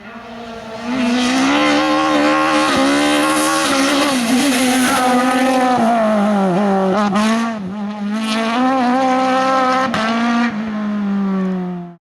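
Race car engine running hard at high revs. Its pitch dips and climbs again as it changes gear, with a few sharp cracks. It fades in and cuts off suddenly at the end.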